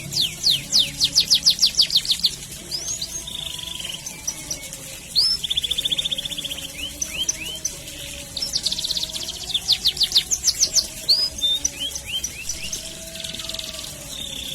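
Domestic canary singing a long, continuous song: fast rolls of rapid, evenly repeated sweeping notes alternate with buzzy held notes and single chirps.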